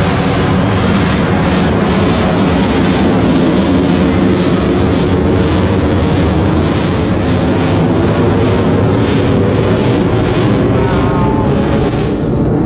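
Airplane engine noise from an air show pass, loud and steady throughout.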